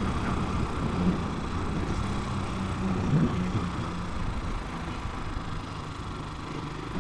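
Italika 250 motorcycle engine running low and steady at traffic speed.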